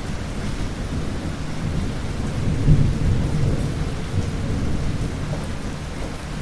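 Thunderstorm: a low rumble of thunder over steady rain, swelling to its loudest about two and a half seconds in and fading away over the next second or two.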